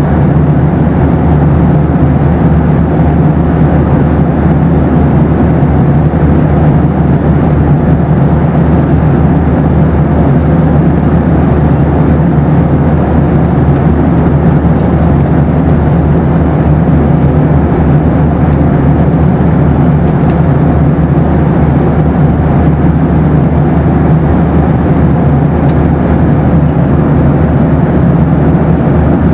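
Boeing 737 cabin noise in flight: a steady, unbroken rush of engine and airflow noise, weighted to the low end, with a few faint ticks in the second half.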